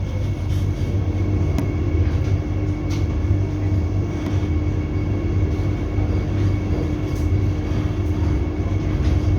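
Vande Bharat Express electric trainset running and gathering speed, heard from inside the coach: a steady low rumble with a constant hum and a few faint clicks from the wheels on the track.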